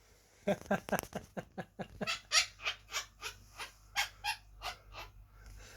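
Parrot imitating human laughter: a long run of short "ha" syllables, about three to four a second, starting about half a second in and slowing a little towards the end.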